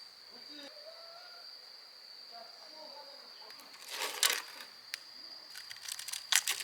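Autumn crickets chirping in a steady high note, with sharp crinkling bursts about four seconds in and again near the end.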